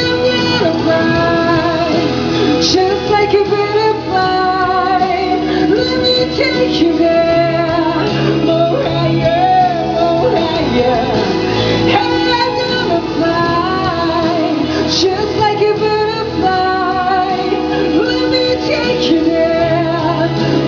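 A singer performing a pop song live, the voice wavering with vibrato over sustained instrumental accompaniment.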